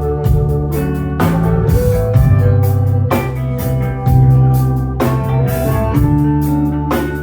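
A live blues band playing an instrumental passage at a slow, steady beat of about one hit a second. Electric guitar, organ, bass and drum kit sound together, with held organ chords under the guitar.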